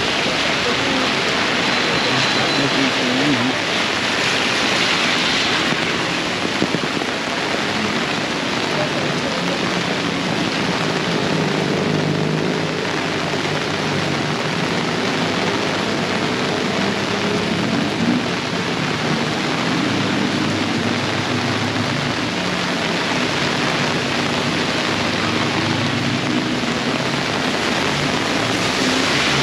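Torrential rain pouring down steadily and splashing on the ground and on puddles, with a low droning hum underneath through much of the middle.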